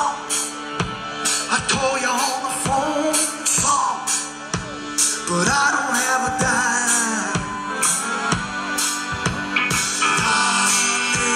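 Live band music: a singer over a drum kit, with steady drum strokes and held instrument notes.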